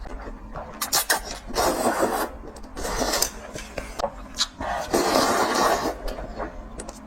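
Close-miked eating sounds: chewing and mouth noises in rough bursts of about a second each, with sharp clicks between them.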